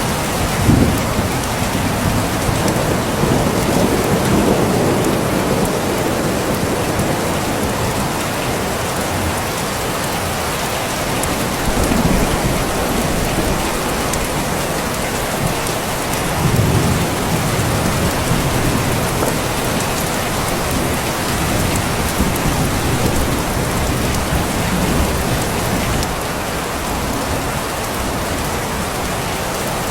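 Steady rain, with low rumbles of thunder swelling up several times.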